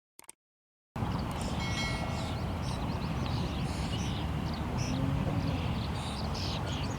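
Outdoor ambience: many birds chirping and calling over a steady low rumble, starting suddenly about a second in.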